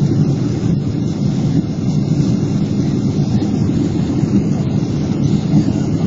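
Steady roar of a Boeing 777-300's engines and airflow heard from inside the passenger cabin as the airliner rolls out after landing, an even low rumble with no change.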